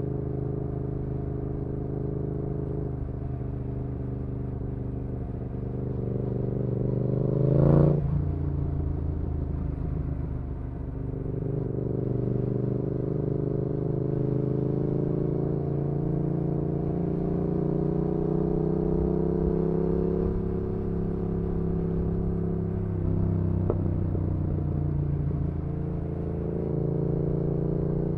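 A Yamaha XSR700's parallel-twin engine, heard onboard through an aftermarket IXRACE MK2 exhaust, running under way. It climbs in pitch to a loud peak about eight seconds in and drops off sharply, then pulls up again more gently and eases back down near the end.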